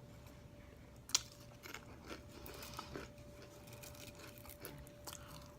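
Quiet room with faint scattered clicks and small handling noises, one sharp click about a second in, over a faint steady hum.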